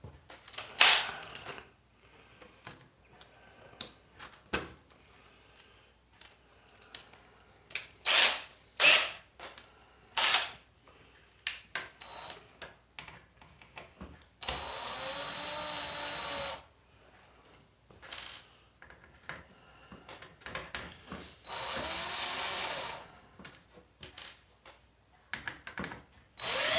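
Clicks and knocks of tools and parts being handled, then a small electric drill-driver with a fine bit runs in two short spells of about two seconds each, its motor pitch rising as it spins up and falling as it stops. It starts once more near the end.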